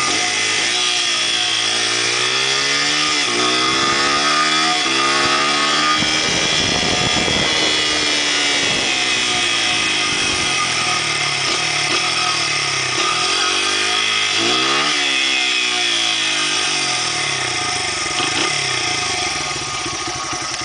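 Honda CRF80 dirt bike's small four-stroke single-cylinder engine under way, its pitch climbing and falling back over and over as it revs up through the gears and backs off, easing down near the end.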